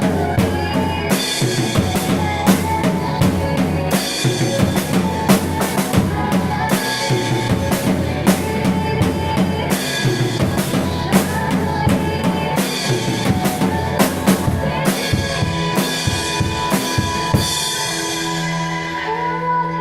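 Drum kit played with kick drum, snare and rimshots over pitched backing music of the song. Near the end the drumming stops, the cymbals ring away and the backing music carries on.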